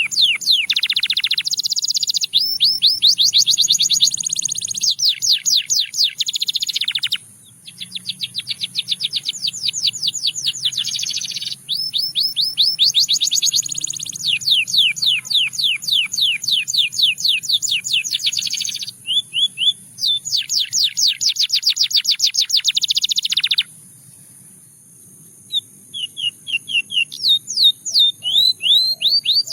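Russian singing canary in full song: long phrases of rapid, evenly repeated trilled notes, switching from one tour to the next every few seconds. About two-thirds of the way through it pauses for a couple of seconds, then resumes with softer scattered notes that build back into fast trills near the end.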